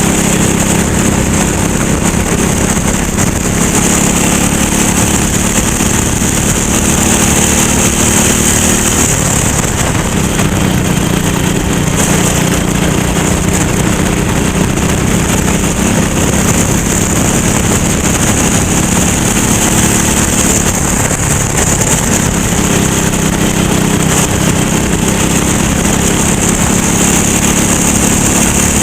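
Go-kart engine running hard, heard onboard, its revs dropping and climbing back twice as the kart brakes and accelerates, over a constant hiss.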